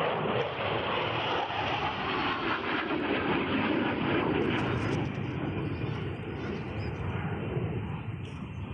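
Fixed-wing aircraft flying past at an airshow, its engine noise steady at first and then fading over the last few seconds.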